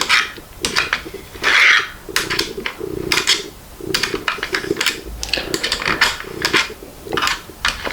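Irregular clicks and rattles of small parts being handled while a fitting on a 3D printer is tightened by hand.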